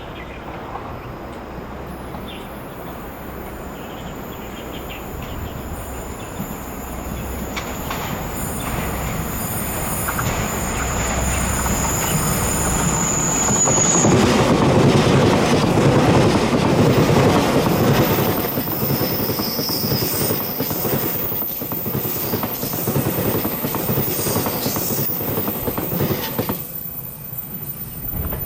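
Taiwan Railway EMU3000 electric multiple unit passing. It builds to its loudest about halfway through and then eases off, with a thin high whine that stops suddenly around the middle.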